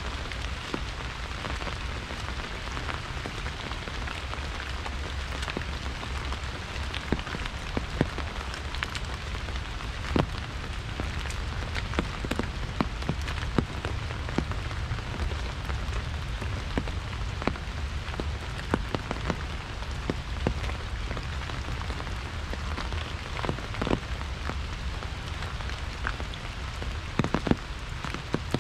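Steady rain hitting an umbrella overhead: an even hiss broken by many sharp, separate taps of single drops, over a low steady rumble.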